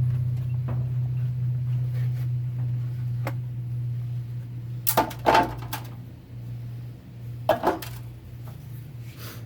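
Steady low hum with a few light ticks, and two short bursts of metal clattering about five and seven and a half seconds in, as 4L60-E transmission parts are handled during teardown.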